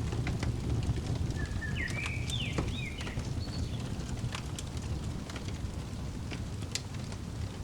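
Fireplace crackling: scattered sharp pops and crackles over a steady low rumble. A bird sings one short whistled phrase that steps up and down in pitch, about a second and a half in.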